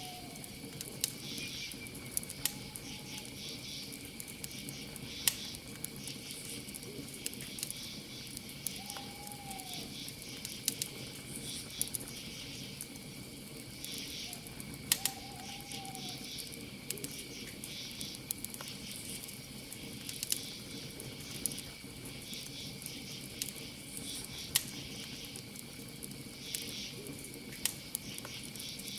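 Campfire crackling with frequent sharp pops over a steady, pulsing chorus of crickets. A soft owl hoot, a short call that rises and falls, comes a few times.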